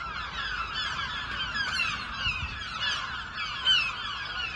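A flock of gulls calling at once, many overlapping alarm calls in a continuous clamour with one louder call near the end, the gulls mobbing a perched Harris hawk.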